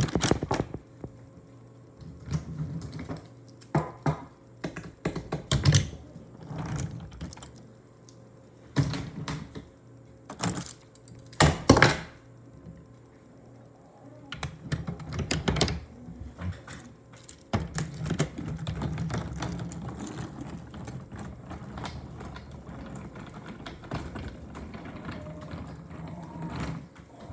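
Wooden toy railway: irregular clicks and clacks of wooden train pieces on wooden track, a few louder knocks among them, over stretches of a low steady hum.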